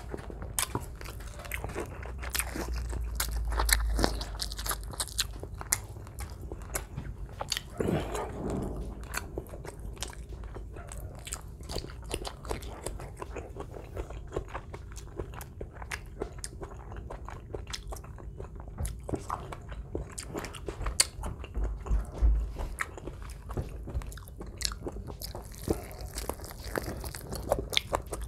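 Close-miked eating of roasted chicken asado: biting, crunching and wet chewing, many short mouth clicks and smacks throughout.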